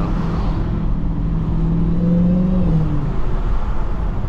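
Dodge Charger Hellcat's supercharged 6.2-litre V8 running at low speed in slow traffic, heard from inside the cabin. It holds a steady low note that lifts slightly about two seconds in and then drops away as the throttle eases, over the constant rumble of the car on a wet road.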